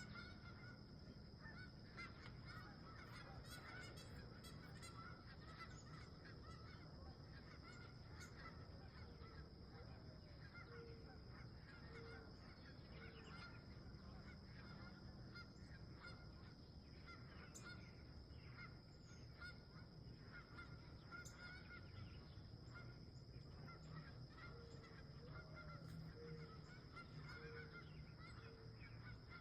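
Wild geese honking faintly in the distance: a run of four or five short honks about a third of the way in, and another near the end.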